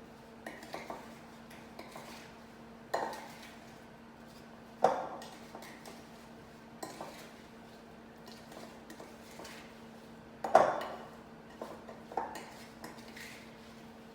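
A spoon or fork knocking and scraping against a large mixing bowl as apple slices are tossed with a flour-and-spice mixture, in irregular knocks with two sharper ones about five and ten and a half seconds in.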